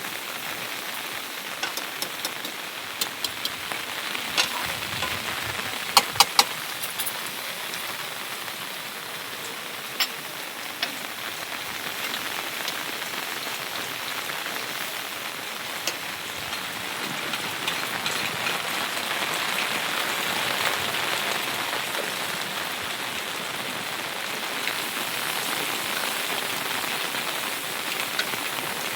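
Steady rain falling on a surface, a constant hiss with scattered sharp drop taps. A few louder taps come close together about six seconds in, and the rain swells a little in the second half.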